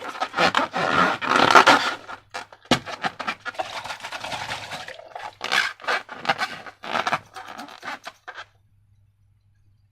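Slime being squeezed and worked by hand, a run of wet, crackly squelches. They are heaviest for the first two seconds, come in shorter clusters after that, and stop over a second before the end.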